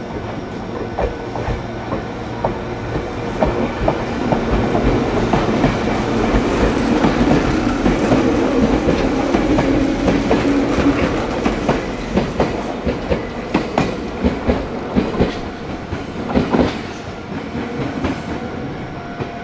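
Meitetsu electric train running through the station, its wheels clattering over rail joints. The noise builds to a peak about halfway, then a string of sharp joint clicks follows before it dies away.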